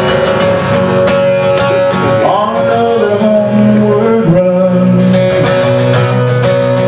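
Instrumental break in a country-style song: guitar strummed in a steady rhythm over held notes.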